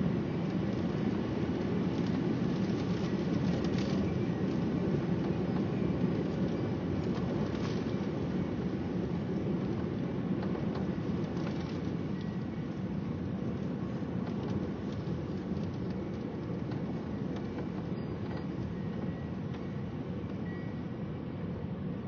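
Steady low rumbling storm noise, easing slowly toward the end, with a few faint ticks.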